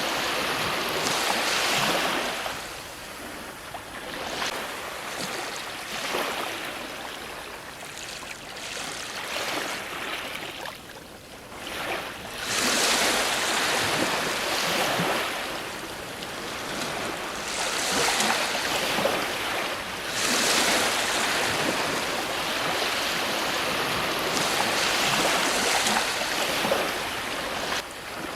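Ocean waves breaking on a shore in repeated surges a few seconds apart, each building to a hiss of surf and then falling away, with a quieter lull about eleven seconds in before a stronger surge.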